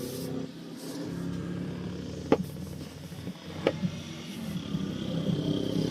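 A motor vehicle engine running steadily, with two sharp clicks about a second and a half apart.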